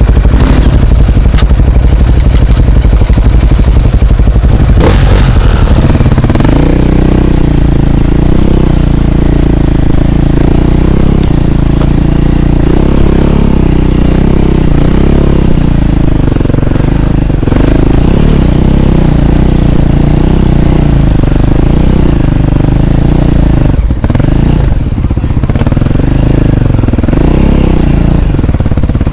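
Dirt bike engine heard up close from the rider's own bike. It runs hard and dense for the first few seconds, then its revs keep rising and falling as the throttle is worked over rough ground.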